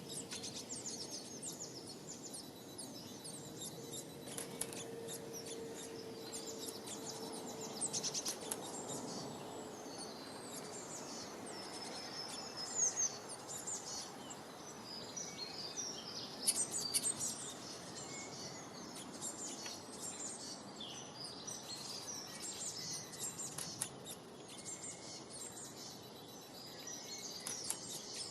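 Small birds chirping and twittering in many short, high calls, closely overlapping, over a steady low background noise.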